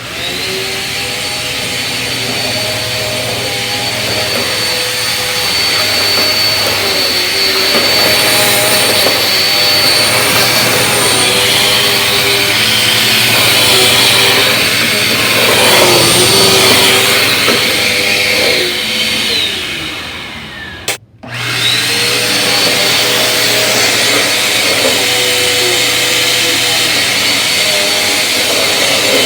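Bissell vacuum cleaners running with a high motor whine whose pitch shifts as the vacuum works the floor. About two-thirds of the way through, the motor is switched off and winds down; after a brief break, another Bissell vacuum is switched on and its whine rises to full speed.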